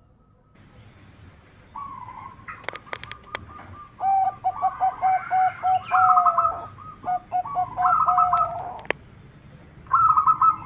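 Zebra doves (perkutut) cooing in fast runs of short, repeated notes, in several bursts. A few sharp clicks come about three seconds in and again shortly before the last burst.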